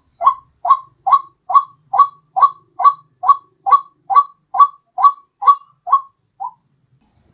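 White-breasted waterhen calling: a steady run of about fifteen short, identical notes, a little over two a second. The last note is fainter, and the calling stops about a second before the end.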